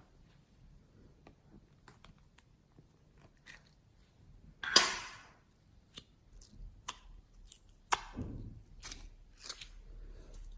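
Slime being handled by hand, making a series of sharp sticky clicks and pops, with one much louder squelch about halfway through.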